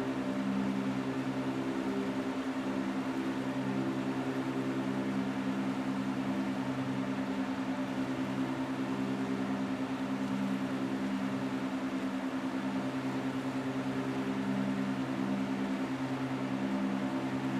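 Steady low hum made of several held tones that swell and fade gently, over an even hiss.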